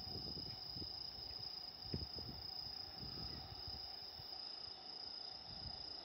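Steady high-pitched trill of night insects such as crickets, with uneven low rumbling underneath.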